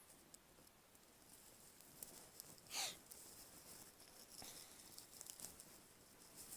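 Near silence with a few faint clicks and one brief swish a little under three seconds in.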